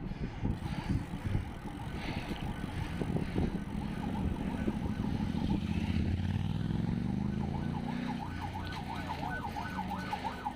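Road traffic: a motor vehicle's engine rising and then falling in pitch as it passes. In the last few seconds a fast warbling, siren-like tone comes in.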